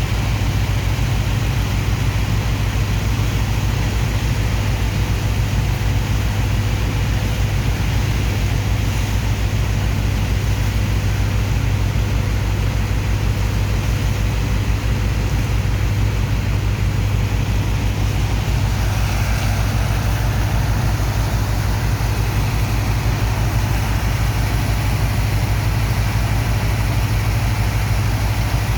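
Heavy engine of a sand dredger's pump running steadily at constant speed, a deep even rumble with a steady hum.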